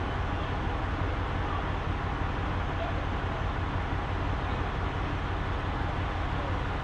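Steady drone of a semi-truck's diesel engine with road noise, holding an even level throughout.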